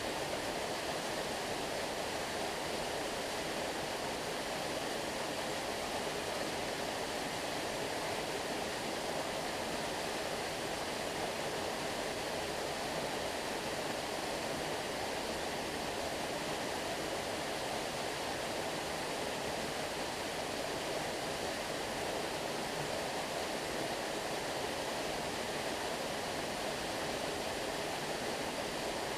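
Stream water flowing with a constant, even rush.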